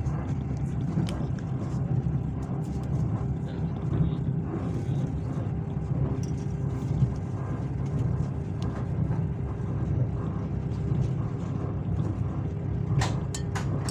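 Steady low rumble of a passenger train carriage, with a faint steady hum and scattered light clicks, a cluster of them near the end.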